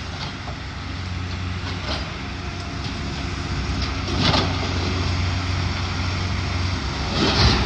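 Heavy excavator's diesel engine running steadily during building demolition, with sudden crashes and clanks of rubble about two seconds in, around four seconds in and near the end.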